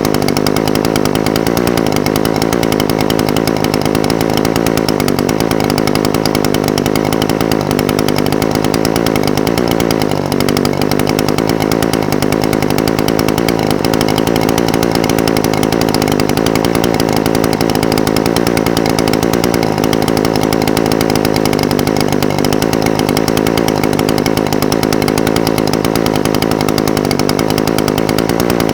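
Echo SRM-420TES brush cutter's two-stroke engine idling steadily, its pitch wavering slightly with a brief dip about ten seconds in.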